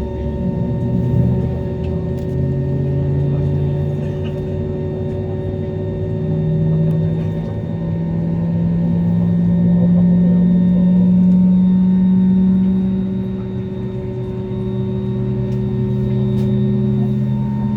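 Airliner's jet engines on landing approach, passing overhead: a steady drone with several held tones and a low tone that slowly rises, loudest about ten to twelve seconds in.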